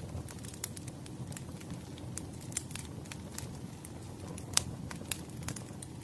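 Burning firewood crackling: a steady low rumble of flames with frequent sharp crackles and pops, one louder pop about four and a half seconds in.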